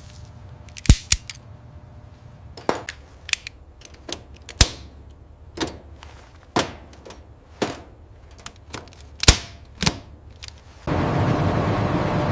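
About a dozen sharp knocks at uneven intervals, roughly one a second, over a low steady hum; near the end a much louder continuous rumbling noise cuts in abruptly.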